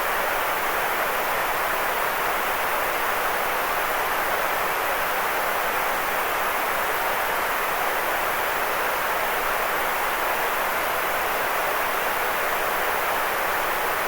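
Steady white noise: an even, unchanging hiss, fullest in the middle pitches rather than bright or deep.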